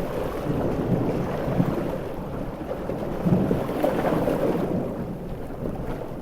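Coastal storm ambience: heavy ocean waves and rain in a deep, rumbling wash that swells and eases, softening a little near the end.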